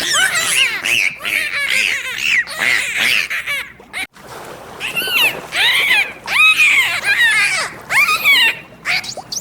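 Repeated animal calls: short high squeals, each rising and falling in pitch, coming in quick clusters, with a brief pause about four seconds in.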